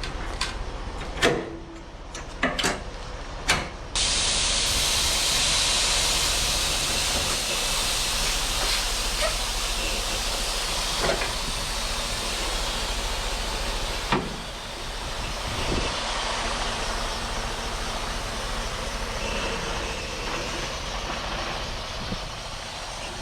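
Semi truck: a few sharp clicks, then a loud steady hiss that starts suddenly about four seconds in and eases after about ten seconds, with a couple of knocks.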